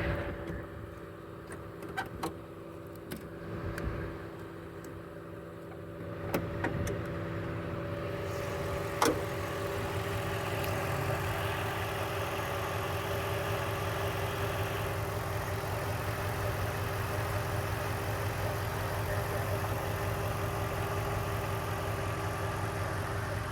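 2005 Mercedes-Benz E55 AMG's supercharged V8 idling steadily shortly after a cold start. A few sharp clicks and a clunk in the first nine seconds come as the hood is unlatched and raised, and the engine is louder from about six seconds in.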